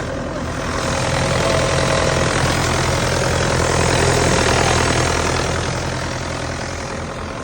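2007 Bobcat compact track loader's freshly rebuilt diesel engine running shortly after a first start following seven years of sitting; it swells a little louder toward the middle and then eases back.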